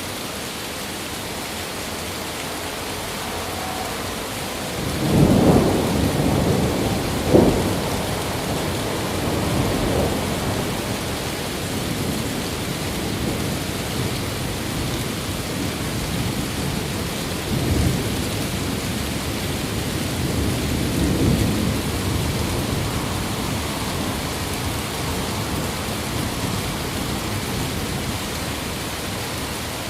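Steady rain with several rolls of thunder. The strongest rumble builds about five seconds in and has a sharp crack a couple of seconds later, and weaker rumbles follow near ten, eighteen and twenty-one seconds.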